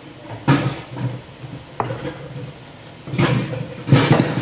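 Chewing of a mouthful of lettuce salad close to the microphone, with knocks and clattering from elsewhere in the house, loudest near the end.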